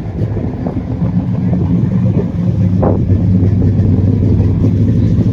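Classic car engine idling steadily, loud and close.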